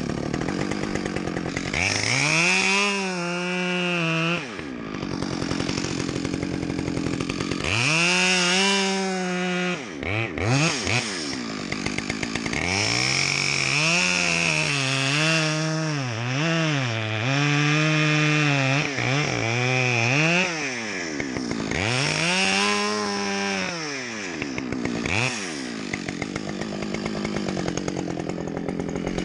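Two-stroke chainsaw felling a tree, revving up to full speed and dropping back several times, its engine pitch wavering up and down under load through the middle of the cut.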